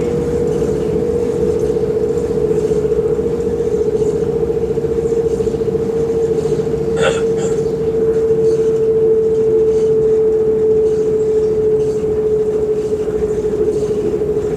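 Cabin noise of a moving electric train: a steady whine with a rumble of the wheels running on the track beneath it, and one short click about seven seconds in.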